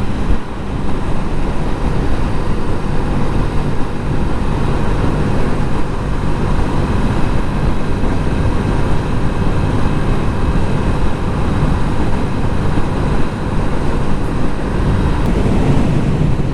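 Yamaha Riva 125 scooter running at road speed on the move, its engine under a steady low rumble of wind and road noise.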